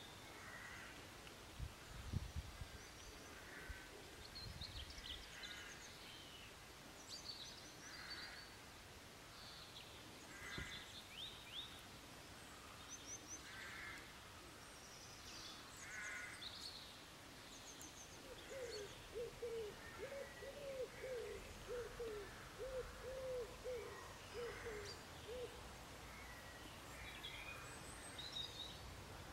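Faint birdsong: small birds chirping in short high phrases throughout, joined about two-thirds of the way in by a run of evenly repeated low calls lasting several seconds. A soft low thump comes about two seconds in.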